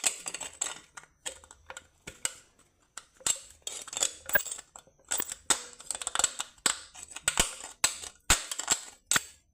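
Thin aluminium beer can being worked by hand with a tool, the pierced hole being trimmed and shaped: a string of irregular sharp metallic clicks, crinkles and short scrapes.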